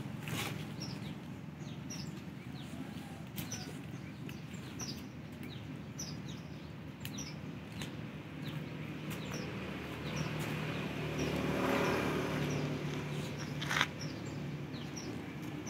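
Small birds chirping over and over in short, falling chirps, over a steady low hum that swells for a couple of seconds about eleven seconds in. A single sharp knock comes near the end.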